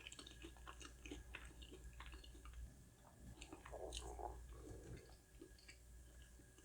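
Quiet close-up chewing: soft, wet mouth clicks and smacks as a person eats.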